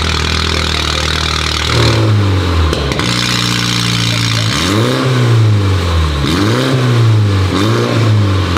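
MINI Cooper S 2.0-litre turbocharged four-cylinder engine running with its exhaust removed, a sound called terrible. It idles, rises briefly about two seconds in, then is revved in three quick blips in the second half.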